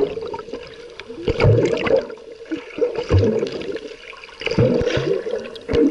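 Sea water splashing and gurgling in four surges, about one every second and a half.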